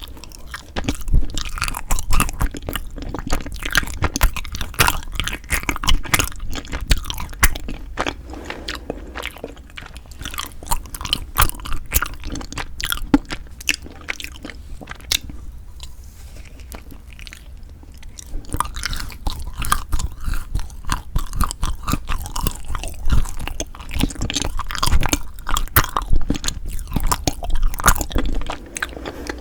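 Close-miked chewing of soft, sticky food, frozen rice cake and cream cheese, with wet, clicky mouth sounds and occasional crunchy bites.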